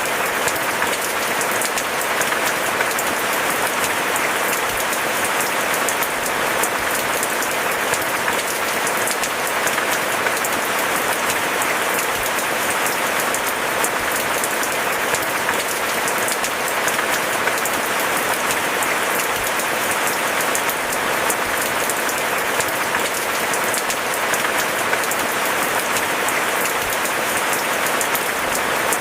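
Steady rain falling in a dense, even patter of drops.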